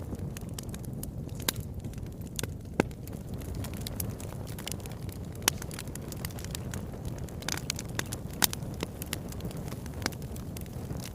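Wood fire burning in a fireplace: a steady low rush of flame under frequent sharp crackles, with a few louder pops scattered through.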